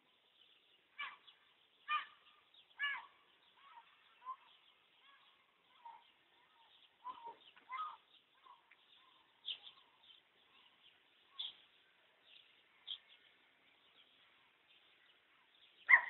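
Birds calling intermittently: three louder calls in the first three seconds, then scattered fainter calls and chirps.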